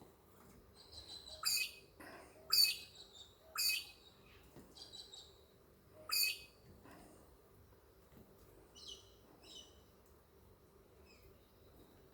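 A pet bird chirping and calling in short bursts, with four louder, sharper calls in the first half and softer chirps in between and later.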